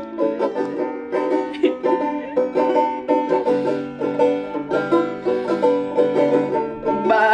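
Live band music with no singing: quick plucked-string picking over a steady rhythm. A louder, wavering held note comes in near the end.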